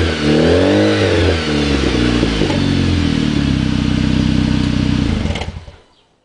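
Exhaust of a 2008 Dodge Caliber SRT-4's turbocharged 2.4-litre four-cylinder, fitted with a 3-inch downpipe, high-flow cat and aftermarket muffler, revved once up and back down, then idling steadily. The sound fades out about five and a half seconds in.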